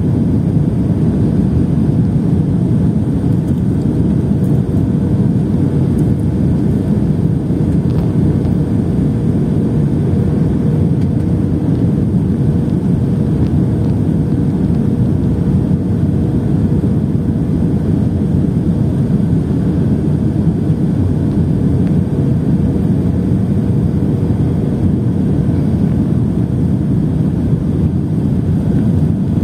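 Passenger airplane noise during a landing approach: a steady low rumble with a faint constant hum, unchanging throughout.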